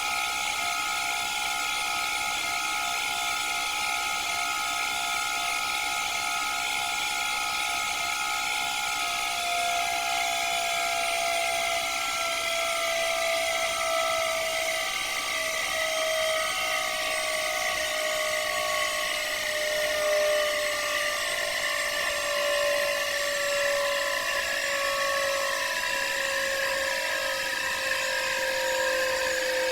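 Candy washing machine spinning: a high motor whine over a steady hiss, its tones slowly falling in pitch as the drum slows.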